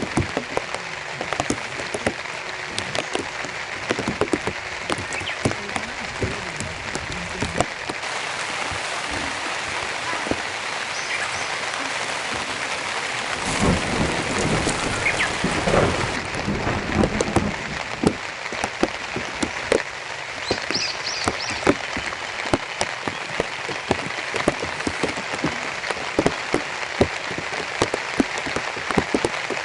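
Heavy rain falling steadily, with many sharp drop hits standing out from the hiss. A louder, deeper swell runs from about 14 to 17 seconds in.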